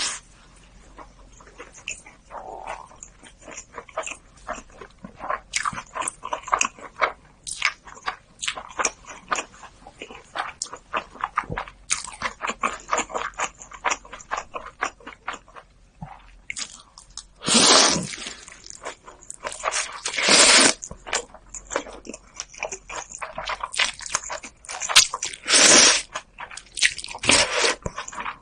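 Close-miked eating sounds: rapid wet chewing and mouth clicks. In the second half there are four louder noisy bursts, each about a second long.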